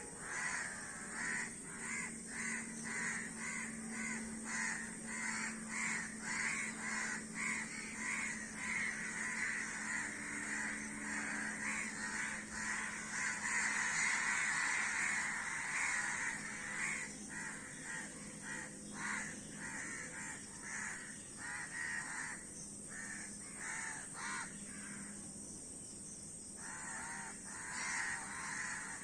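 A flock of crows cawing over one another in a dense run of overlapping caws, thinning out for a few seconds near the end.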